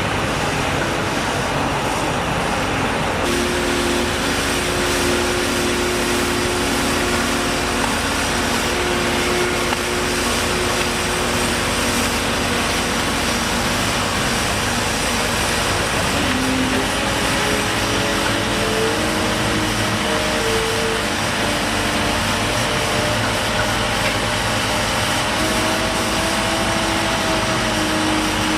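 Motor vehicle engines running steadily under a continuous wash of noise, with engine tones that shift slowly in pitch.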